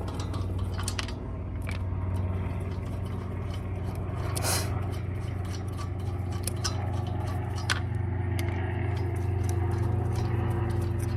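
Scattered light metallic clicks, clinks and scrapes of hand tools being handled, over a steady low hum.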